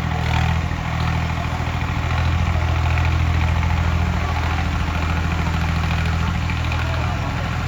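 Tractor diesel engine running steadily at an even, low pitch.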